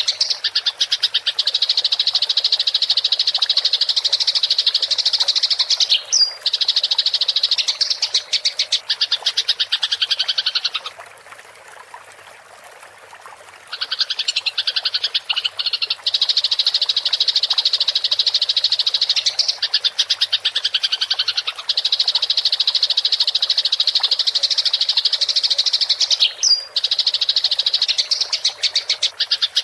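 Eurasian tree sparrows (burung gereja) in fighting chatter: a rapid, unbroken, buzzy run of high chirps. The chatter pauses about eleven seconds in and resumes about three seconds later.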